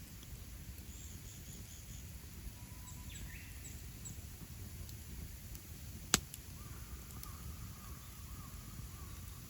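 Wood campfire burning with a low steady rumble and one sharp pop about six seconds in, with faint birds chirping and trilling in the background.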